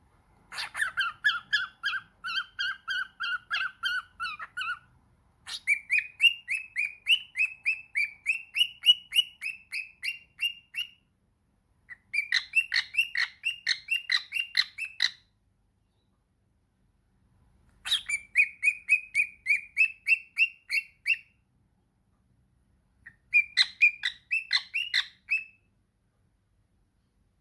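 Pet parrot calling in five bouts of quick repeated squawky notes, several a second, with short pauses between bouts; the first bout is lower-pitched than the rest.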